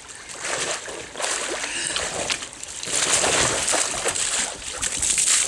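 Water splashing and sloshing as a kayak is tipped over with a person in it, a rush of irregular splashes that grows louder from about three seconds in.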